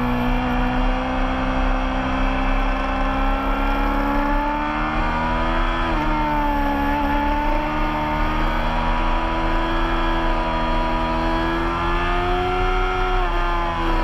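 Racing motorcycle engine pulling hard on track, heard close up from the fairing. Its note climbs slowly, breaks briefly about six seconds in, and drops in pitch near the end.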